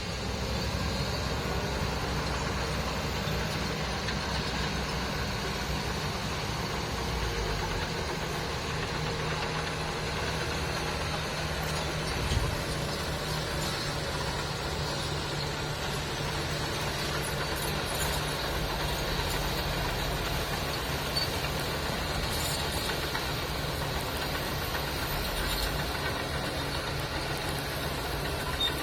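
Heavy truck engine running steadily at low revs, with a single short thump about twelve seconds in.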